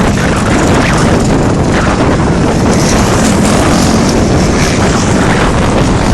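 Strong wind buffeting the microphone: a loud, steady rumble and hiss.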